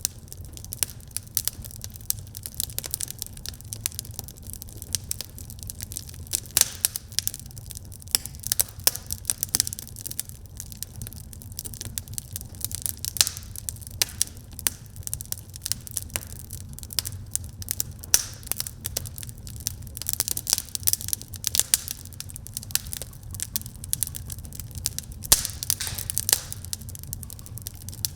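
Wood fire burning in a fireplace, crackling and popping: many sharp, irregular snaps over a steady low rumble of the flames.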